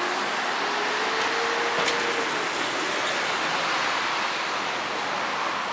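Steady road traffic noise, an even rushing of passing vehicles, with a short click about two seconds in.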